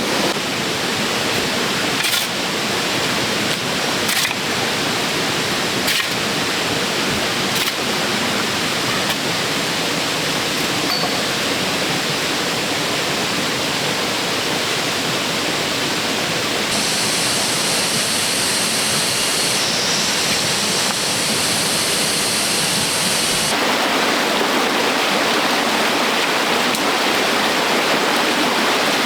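Steady rush of running water, with a few sharp knocks in the first several seconds and a higher hiss joining in for several seconds past the middle.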